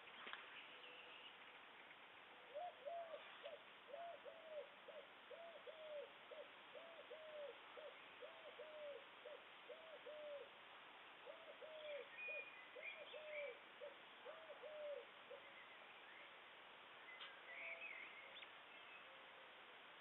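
A bird repeating a hollow hooting note about twice a second, in two long runs with a short break between them. Small birds chirp faintly now and then.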